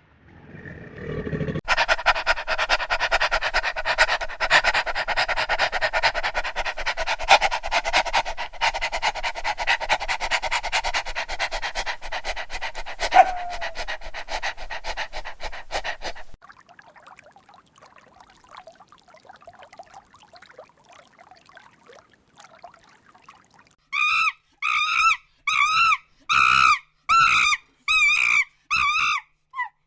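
A dog: about fifteen seconds of dense, rapid rasping noise, then a faint stretch, then near the end about eight short, high yelping cries in quick succession, each with a wavering pitch.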